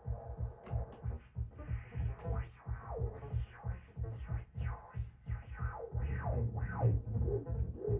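Electronic synthesizer music: a low bass pulsing about three times a second under repeated falling synth sweeps. The bass grows louder about six seconds in.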